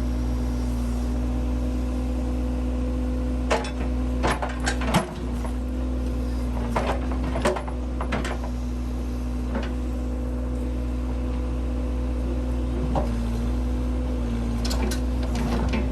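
Case 580C backhoe engine running steadily at a constant speed, with clusters of metallic clanks and knocks, the loudest about five seconds in, more around seven to eight seconds, and again near the end.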